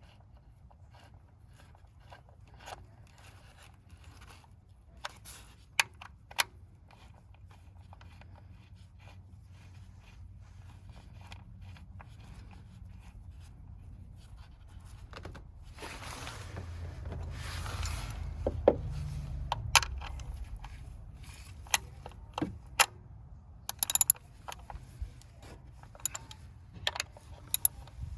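Hand tools clicking, tapping and scraping on metal as the coil pack hold-down screws are tightened, with a low steady rumble underneath and a louder rustling stretch about two-thirds of the way through.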